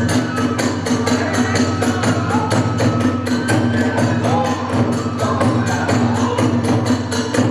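Hiroshima kagura music: small hand cymbals clashing in a fast, even beat of about four strokes a second over a drum, with a bamboo flute playing held and bending notes above.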